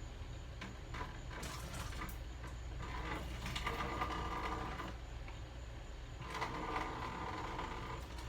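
Hot water being poured off cooked macaroni from a bowl, in two pours of a couple of seconds each, with a few light knocks of the bowl.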